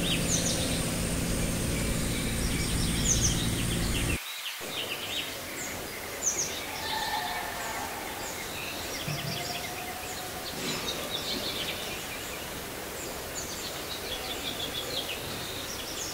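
Small birds chirping over and over over a steady hiss. For the first four seconds a loud steady low hum with a thin high whine runs underneath, then cuts off abruptly.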